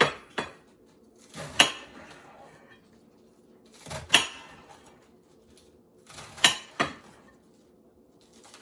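Knife chopping lettuce on a cutting board: about six sharp knocks, irregularly spaced, with pauses of a second or more between some of them.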